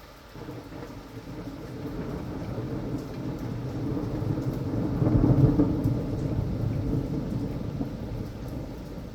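A long roll of thunder over rain: a low rumble that builds from the start, is loudest about halfway through, and slowly dies away.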